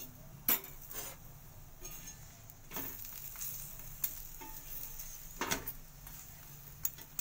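A stuffed potato paratha sizzling faintly on a tawa, with a metal spatula clicking and scraping against the pan a handful of times.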